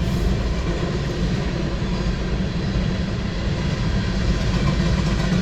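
CSX freight train's cars rolling past at a crossing: a steady rumble of wheels on rail, heard from a car.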